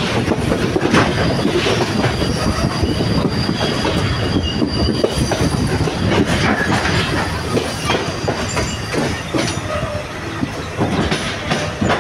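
Passenger train running, heard from inside a carriage at its open window: a steady rumble of wheels on rails with irregular clicks as the wheels cross rail joints and points. A thin, high steady squeal from the wheels on the rails runs through most of the middle and fades out near the end.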